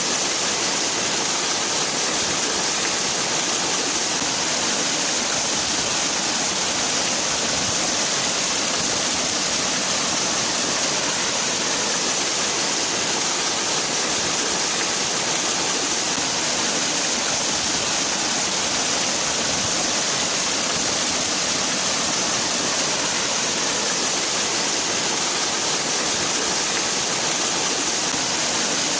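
Waterfall: water falling and splashing in a steady, unbroken hiss, bright and high-pitched.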